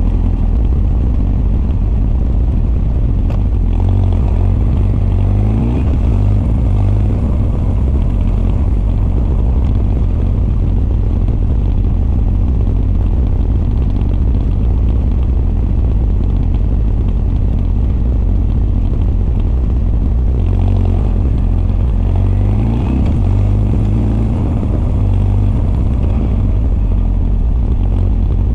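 Honda CB1300 SF inline-four running under way, with the Keihin FCR41 carburetor intake and r's gear Wyvern exhaust. Its pitch rises as it accelerates twice: about four seconds in and again about twenty-one seconds in.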